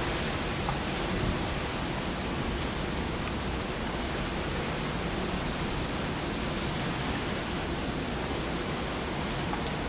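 Typhoon wind and heavy rain making a steady, even rushing noise.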